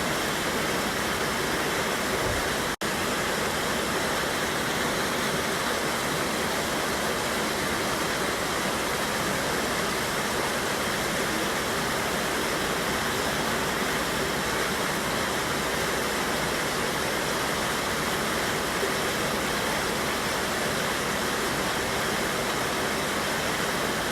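Steady rush of a river cascading over a small waterfall, an even, unbroken wash of water noise. It drops out for a split second about three seconds in.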